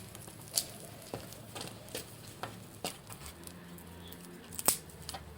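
Wood fire crackling: scattered sharp pops and snaps at uneven intervals, with one louder crack near the end.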